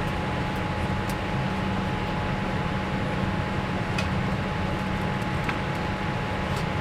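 Steady airliner cabin noise in a Boeing 787 during pushback: an even rush of ventilation air over a low hum, with a thin constant tone running through it and a few faint clicks.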